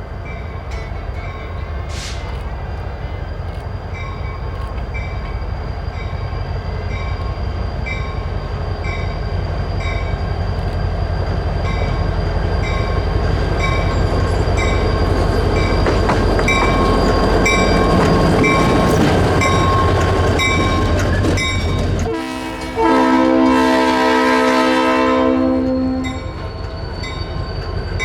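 EMD GP30 diesel locomotive running and growing steadily louder as it approaches, with a bell ringing at an even beat. About three-quarters of the way through, its Leslie RS3L horn sounds one long chord for about three seconds.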